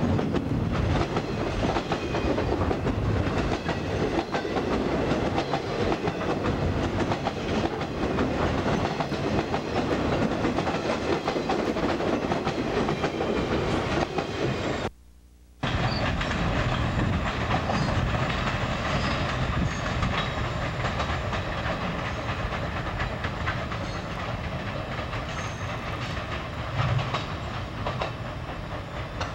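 Freight train flatcars rolling past close by, wheels clicking over the rail joints. The sound breaks off suddenly for a moment about halfway through, then the train's rumble returns a little quieter and slowly fades.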